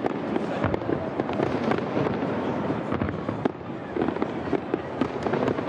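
Large display fireworks going off: an irregular, rapid string of sharp bangs and crackles over a continuous rumble of overlapping explosions.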